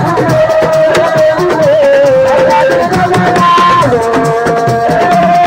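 Live assiko band music: drums and rattles playing a fast, dense beat under a held lead melody that slides between notes.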